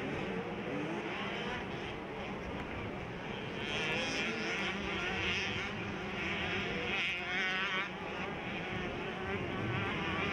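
Small two-stroke 65cc motocross bikes racing, their engines revving up and down in quick high-pitched warbles, loudest through the middle of the stretch.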